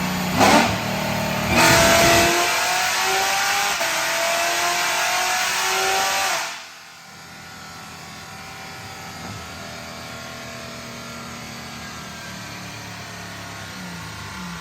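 A supercharged LT4 V8 in a C7 Corvette Z06, fitted with a BTR stage 2 camshaft and making about 750 wheel horsepower. It blips once, then pulls hard at full throttle with a rising note that dips once near 4 s, as at a gear change, and climbs again. At about 6.5 s the throttle closes abruptly and the engine runs on much quieter.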